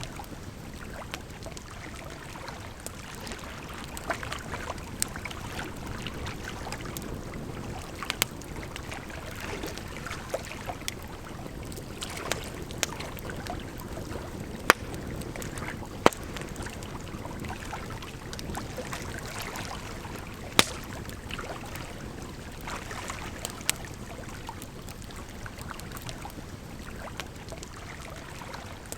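Campfire crackling, with sharp pops every second or few, a handful of them loud, over a steady rush of flowing water.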